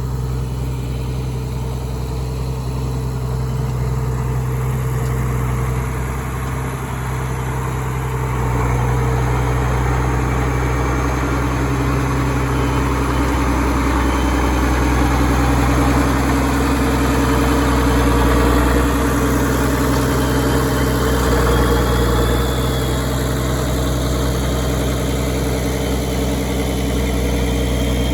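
Tractor engine running steadily, a little louder from about eight seconds in.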